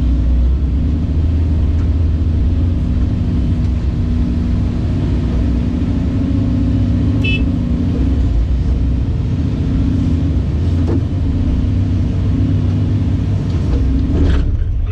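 Caterpillar 349E excavator's diesel engine running steadily with a deep, even rumble.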